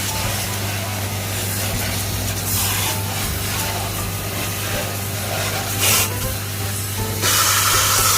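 Water sprayer from an air-conditioner cleaning kit spraying water, a steady loud hiss over a steady low motor hum. The spray grows louder for short stretches and again near the end.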